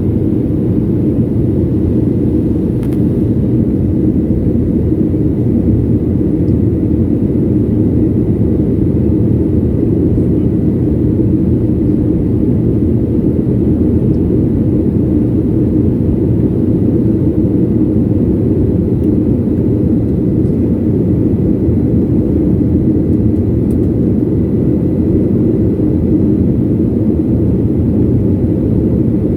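Airliner cabin noise: the engines and airflow make a steady, loud low rumble, heard from inside the passenger cabin, with a faint steady high tone above it.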